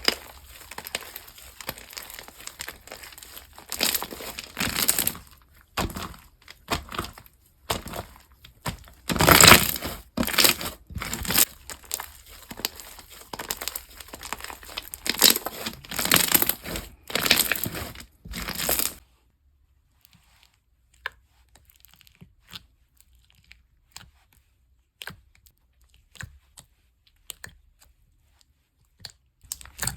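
Packaging being handled, crinkled and torn open in a series of irregular rustles, loudest about a third of the way in. It stops about two-thirds of the way through, leaving only faint scattered ticks.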